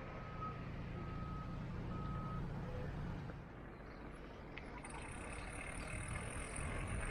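Low engine rumble with three short electronic beeps at one pitch in the first two and a half seconds; from about five seconds in, a steady high hiss.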